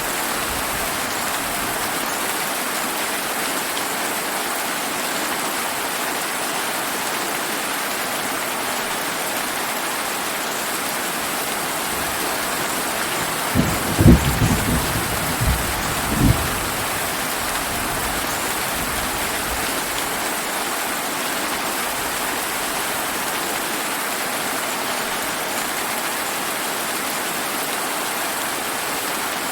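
Steady summer rain falling on surfaces. About halfway through, a low rumble of thunder surges over some three seconds in a few jolts, the first the loudest.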